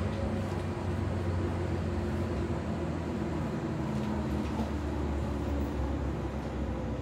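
Interior running noise of a Tobu 8000-series electric commuter train car: a steady hum of motors and gearing over wheel-and-rail rumble as the train slows into a station, easing slightly near the end.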